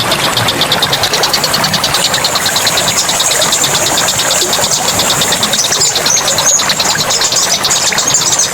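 Forest ambience: running water, a high, fast pulsing buzz, and a few short bird chirps near the end.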